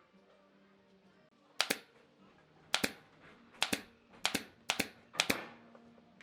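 Six sharp double knocks at uneven spacing, each a quick pair of strikes, typical of a tool striking the wooden chair parts, over faint background music.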